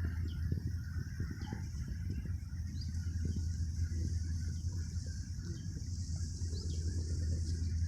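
Outdoor ambience: scattered short bird chirps over a steady high insect-like hiss and a low steady rumble.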